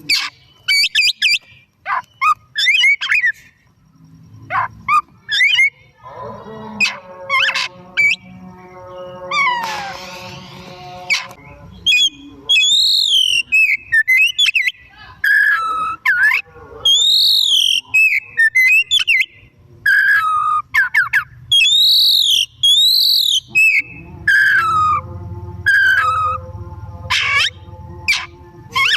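Oriental magpie-robin (kacer) singing: loud, varied whistled phrases with notes sliding up and down and quick runs of short notes, in bursts with short pauses. Twice, a lower sound with many overtones runs underneath for several seconds.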